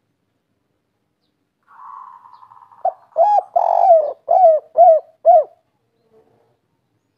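Spotted dove cooing its 'kuk 3' song. A soft rolling note comes about two seconds in, then a run of about six short, arched coos over roughly two and a half seconds, the longest and loudest near the start of the run.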